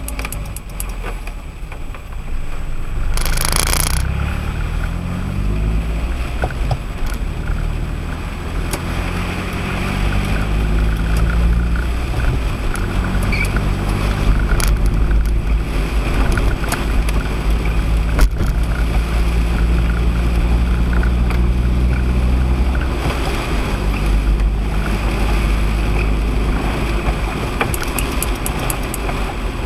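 Car driving on a wet road on Firestone Firehawk Sport 01 tyres. The engine's pitch climbs and drops as it accelerates and eases off, over a steady low rumble and the hiss of tyres on wet tarmac. A brief louder hiss of water spray comes about three seconds in.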